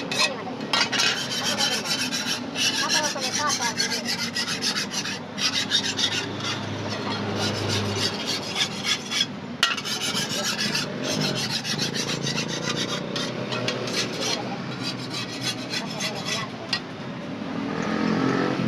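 A hand file rasping over the steel blade of a toka (chaff cutter) in quick repeated strokes, with a few short pauses.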